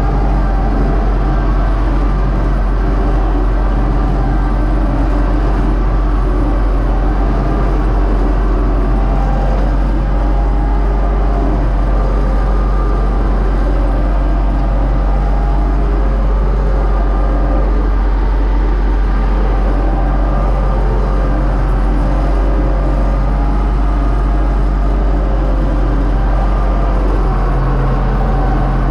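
Universal U-650 tractor's four-cylinder diesel engine running steadily under load, pulling a seed drill.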